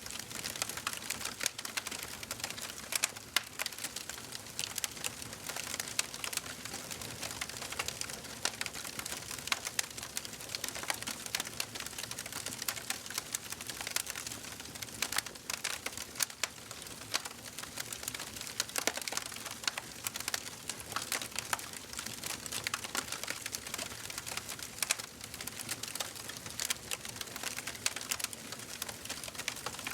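Wood fire crackling in a fireplace: many small irregular pops and snaps over a steady hiss of the flames.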